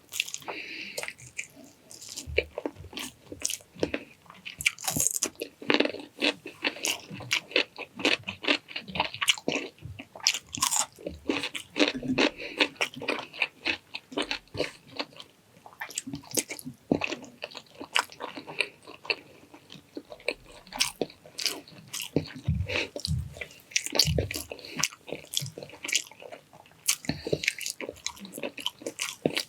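Close-miked eating: steady irregular chewing, biting and crunching with wet mouth smacks.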